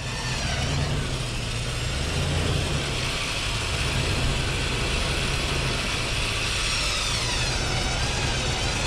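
Off-road SUV engine running with a steady low hum while driving through wet snow, under a broad churning noise; a high whine dips and rises near the end.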